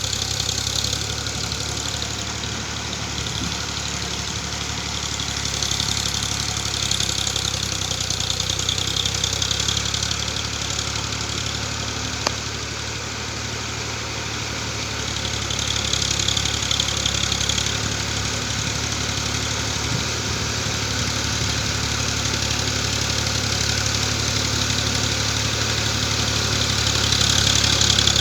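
Swaraj 735 FE tractor's three-cylinder diesel engine running steadily, growing somewhat louder now and then.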